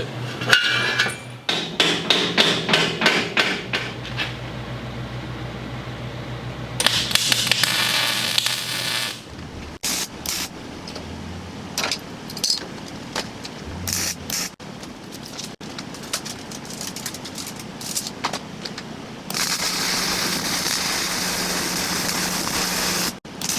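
Steel being welded in short runs, a steady crackling hiss that starts and stops, with knocks and clanks of metal between the runs.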